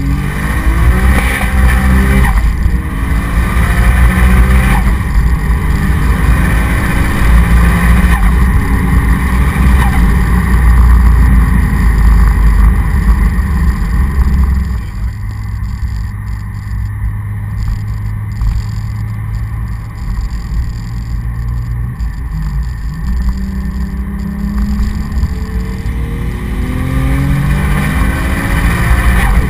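Tuned Toyota Supra MKIV's 3.0-litre inline-six with a big single Turbonetics T76 turbocharger, heard from inside the cabin, accelerating hard, its revs rising again and again through the gears. About halfway it drops back to a steadier, lower drone while cruising, then the revs climb again near the end.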